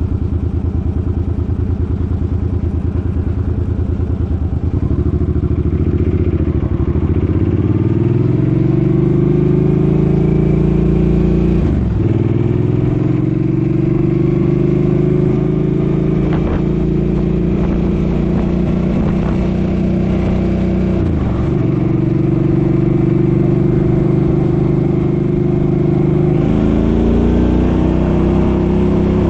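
Suzuki Boulevard M50's V-twin engine pulling away from a steady low note, the pitch climbing through the gears with two upshifts where the note dips and climbs again, then holding steady before the revs drop near the end.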